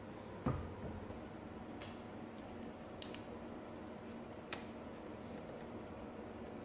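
One dull knock about half a second in, then a few sharp light clicks, over a faint steady hum.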